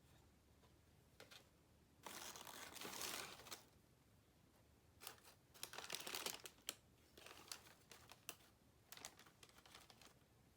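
Paper packaging crinkling and rustling as it is handled, in two longer rustles about two and five seconds in, with light clicks and taps between them.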